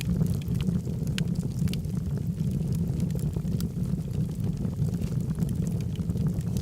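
Wood logs burning in a fireplace: a steady low rumble of flames with scattered sharp crackles and pops.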